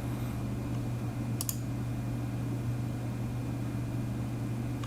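Desktop PC running with its case open: a steady hum from its fans and spinning hard drives, with a single sharp click about a second and a half in.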